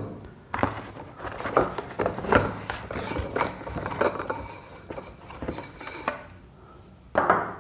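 Hollow square tube bars of a washing machine trolley clinking and clattering against each other as they are handled, in a run of irregular knocks, with a louder clunk near the end.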